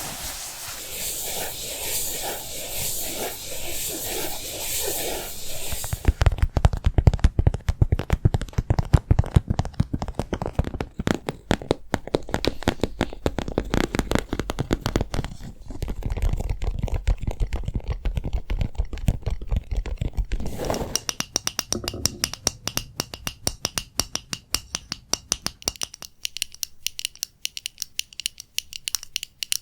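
Close-miked ASMR trigger sounds. A hissing, scratchy noise runs for about six seconds, then gives way to fast, dense tapping and scratching on objects with low knocks. In the last third the tapping takes on a faint ringing pitch, as of a hard, resonant surface.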